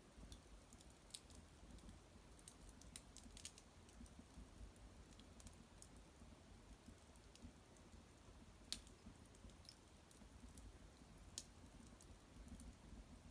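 Faint, irregular crackles and pops of a small wood fire burning in an irori hearth, with a couple of sharper snaps about nine and eleven seconds in.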